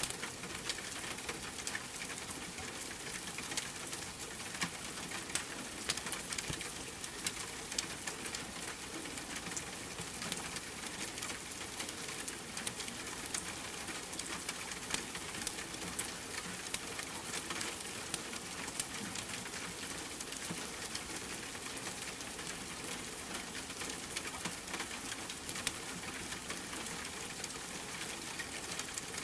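Steady rain mixed with a crackling fireplace: an even hiss with many small pops and crackles scattered throughout.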